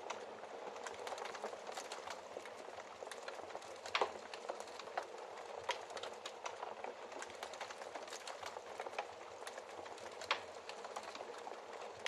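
Wood fire crackling in a fireplace: a dense, steady crackle with a few louder pops, the loudest about four seconds in and others near six and ten seconds.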